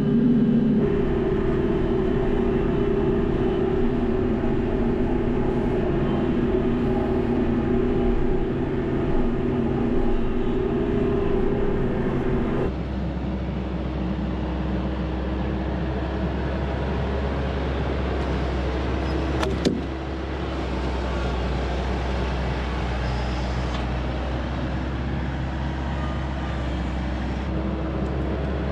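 TYM T574 tractor's diesel engine running steadily. About a third of the way in, its note shifts lower and slightly quieter, and there is a single sharp click a little past the middle.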